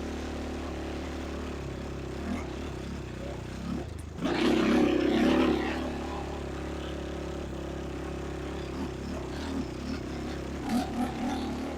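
ATV engine running under way, steady, with a louder surge of throttle lasting about a second and a half around four seconds in.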